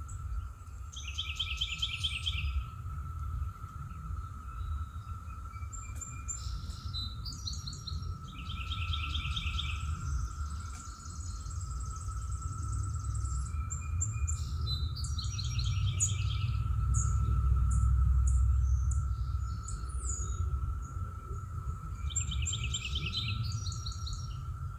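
A songbird sings a short phrase of quick repeated notes four times, about every seven seconds. Under it are a steady low rumble and a constant faint high hum.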